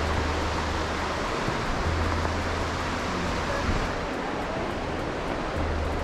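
Steady rushing noise, with a low rumble that drops in and out a few times.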